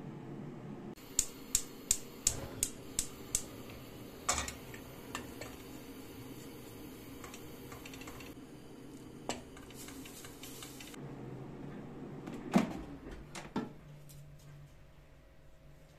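A quick run of about eight sharp clicks, roughly three a second, then a few single knocks and clacks spread apart, over a low steady hum.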